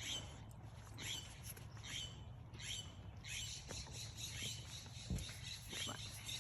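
A small bird calling over and over, short high notes that fall in pitch, about twice a second, with a low thump about five seconds in.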